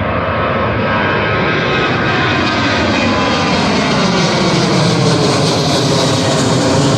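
Boeing 737-800's CFM56-7B turbofan engines at takeoff thrust, a loud jet roar that grows slowly louder and brighter as the airliner passes, with tones gliding down in pitch.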